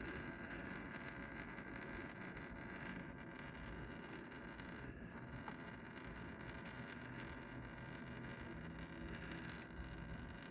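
Old engine oil draining out of the oil pan into a drain pan: a faint, steady pour with a few small ticks.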